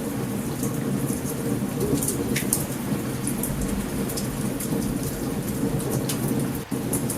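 Steady rain with low rumbling thunder of a storm, mixed with scattered sharp pops and crackles of a campfire. The sound drops out for an instant near the end.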